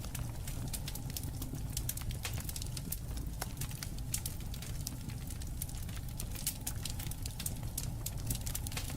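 Campfire burning, crackling and popping with many sharp, irregular snaps over a steady low rumble.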